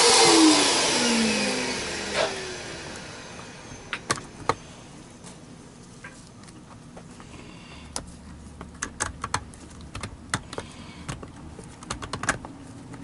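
Vacuum cleaner motor switched off and spinning down: a loud rushing whine falls in pitch and fades over the first few seconds. Then come scattered sharp clicks and knocks of parts being handled.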